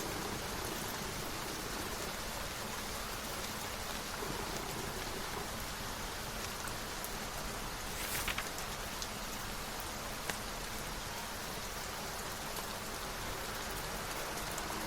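Steady rain falling in an even hiss, with a brief rustle about eight seconds in and a couple of light ticks soon after.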